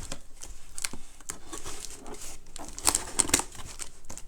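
Irregular clicks and crinkly rustling from something being handled, busiest about three seconds in.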